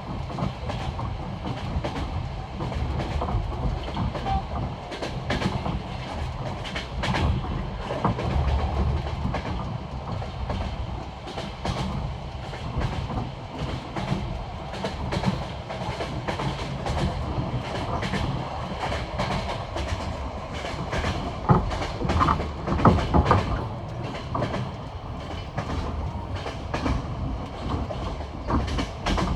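Passenger train wheels running over jointed rail track, with a steady clickety-clack of wheel knocks at the rail joints over the low rumble of the carriage. A run of louder knocks comes about three-quarters of the way through.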